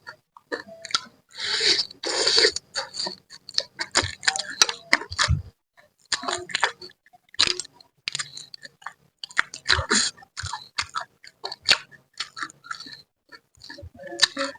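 Close mouth sounds of eating a spicy fish head: a dense, irregular run of wet lip smacks and clicks, chewing and short slurps as the flesh is sucked off the bones.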